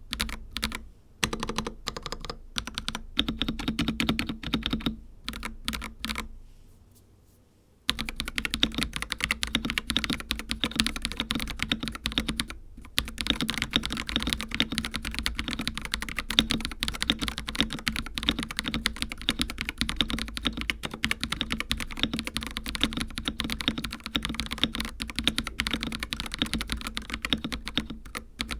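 Typing on an Akko 5075B Plus mechanical keyboard with linear Cream Yellow V3 switches. Scattered keystrokes and short bursts come first, then a brief lull, then fast continuous typing from about eight seconds in.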